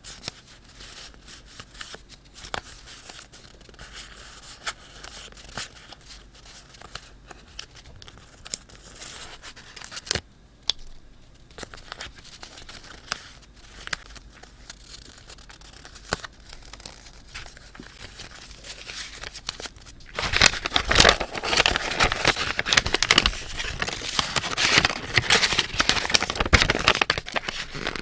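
Paper being handled: soft scattered rustles and small clicks, then from about twenty seconds in a much louder, dense paper crinkling and tearing sound.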